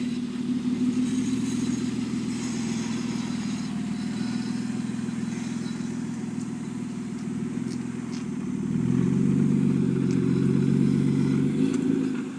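BMW E36 323is inline-six running through a straight-piped exhaust with the muffler deleted. A steady exhaust note; about eight seconds in it turns louder at a higher, steady pitch for about three seconds, then falls away near the end.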